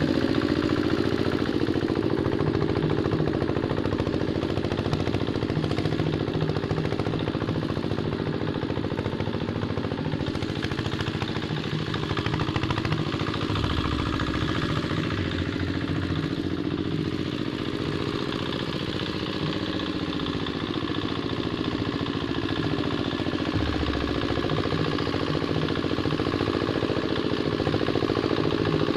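Two-wheel hand tractor's single-cylinder diesel engine running steadily while it ploughs wet paddy soil, with a rapid knocking beat and rattling from the machine.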